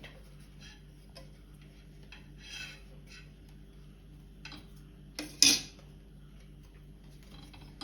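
Faint scattered clicks of a utensil and frying pan over a low steady hum, with one sharp metallic clatter a little after five seconds in.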